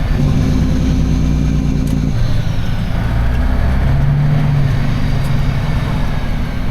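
Semi truck's diesel engine running while driving, with a low steady drone. The engine note drops about two seconds in, then picks up again around four seconds.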